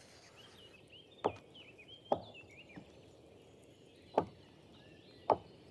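Black woodpecker's beak striking tree bark in single sharp pecks, spaced roughly a second apart: four loud strikes and one faint one, as it strips the bark to reach bark beetle larvae.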